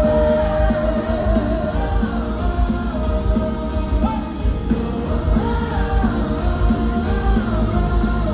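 Live pop-rock band playing, with a sung note held through the first second and melody continuing over steady bass and drums.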